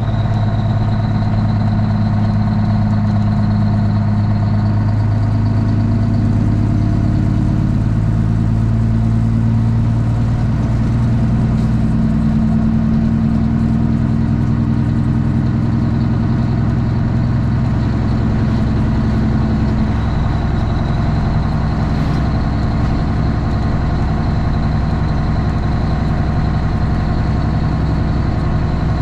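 Straight-piped Cummins ISX inline-six diesel in a Kenworth T800 running under way, a loud steady drone whose pitch steps up or down a few times as the revs change.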